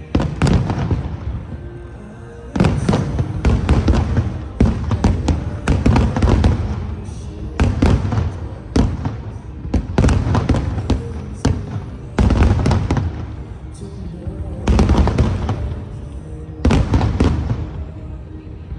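Aerial fireworks bursting in rapid volleys of bangs, each one trailing off into a decaying echo. After a brief lull at the start, dense barrages run on with short pauses between them, and music plays underneath.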